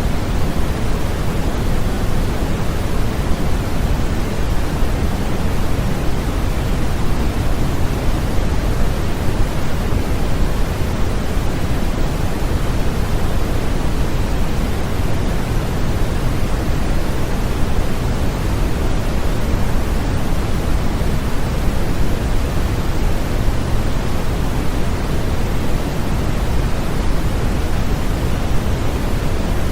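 Continuous sleep-aid white noise: an even, unchanging hiss weighted toward the low end and thinning toward the highs.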